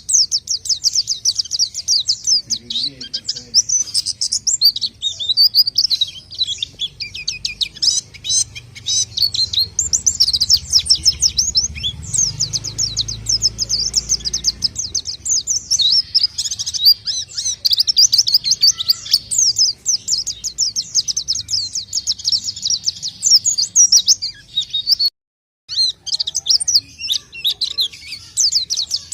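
A caged white-eye (pleci) singing a fast, continuous twittering song of high chirps, broken by a short silence about 25 seconds in.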